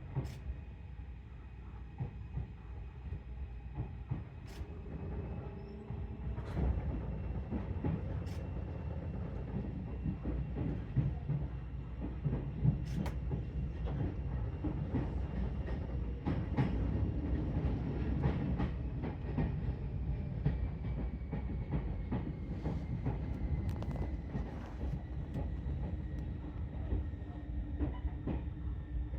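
Seibu 4000 series electric train running on the line, heard from on board: a steady rumble with wheels clicking over rail joints and points. The rumble grows louder about six seconds in, and a faint high tone drifts slightly lower in the second half.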